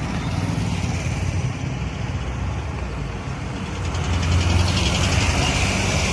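Old car engine running at low speed with a steady low hum, getting a little louder about four seconds in.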